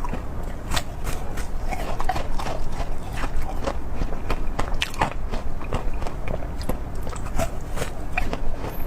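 Close-miked eating: a person biting and chewing food, with irregular sharp crunches and wet clicks several times a second.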